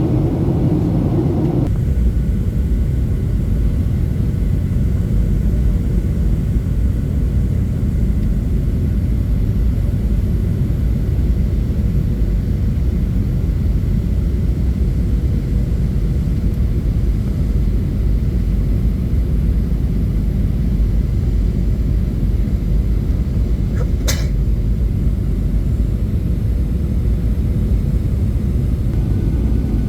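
Steady low rumble of a Boeing 737-800 heard from inside the cabin in flight: engine and airflow noise. A brief sharp click sounds once, about two-thirds of the way through.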